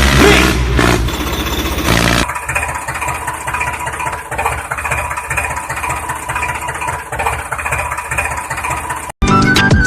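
Tractor engine sound idling steadily with a fast, uneven chug. It takes over abruptly about two seconds in, and music cuts in just before the end.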